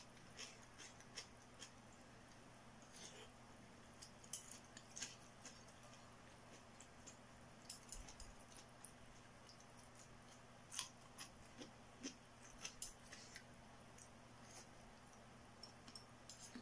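Faint eating noises of a person chewing noodle soup: scattered small mouth clicks and smacks, irregular and close to the microphone, over a faint steady low hum.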